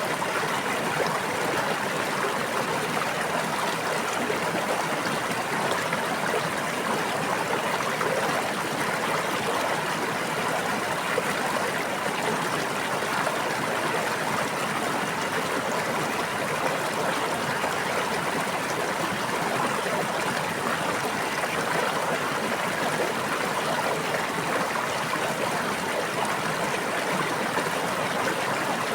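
Stream of water running and babbling steadily, a continuous even rush with no breaks.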